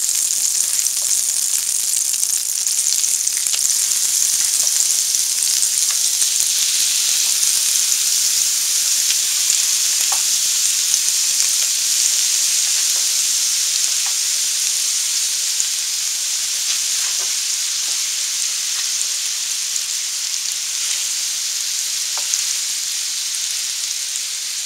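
Ground-beef patties frying in melted butter in an electric skillet: a steady sizzling hiss, with a few faint clicks scattered through it.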